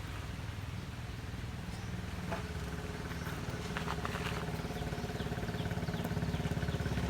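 A small engine running steadily at low speed with a fast, even putter, getting gradually louder.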